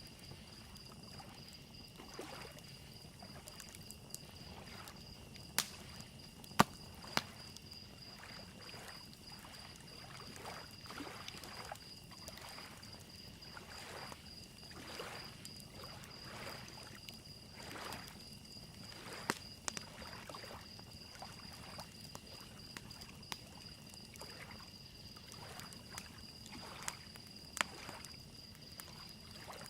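Crickets trilling steadily, a wood fire crackling with scattered sharp pops that are loudest a few seconds in, and small lake waves softly lapping at the shore.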